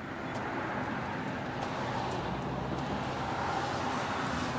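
Steady running noise of an engine, a low hum under an even hiss, growing slightly louder toward the end.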